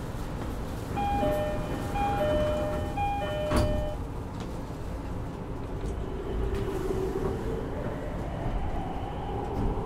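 JR East door-closing chime aboard an E231-0 series commuter train: a high-low two-note chime sounded three times, with the doors shutting in a knock about three and a half seconds in. The train then moves off, its VVVF inverter traction motors whining higher in pitch as it accelerates, over car noise.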